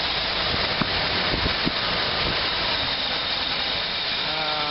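GMC 366 gasoline V8 of a school bus running steadily at idle on a freshly rebuilt carburetor whose idle screw still needs adjusting, with a few light clicks in the first two seconds.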